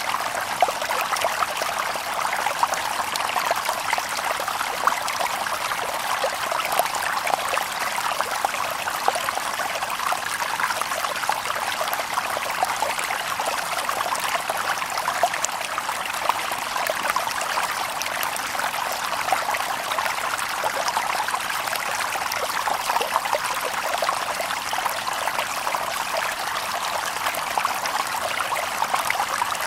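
Shallow stream babbling and trickling over stones, a steady splashy burble of small water sounds with no birds.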